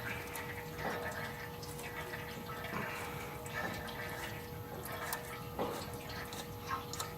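Engine oil trickling steadily from the open drain hole into a drain pan, with a few faint knocks.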